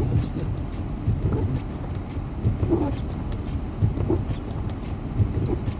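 Steady low rumble of a vehicle's engine and road noise heard inside the cabin while moving slowly through snow, with small irregular knocks.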